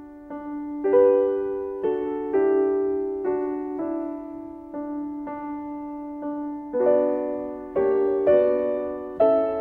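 Background music: slow piano or electric piano playing struck chords and notes that ring and fade, over a sustained low note.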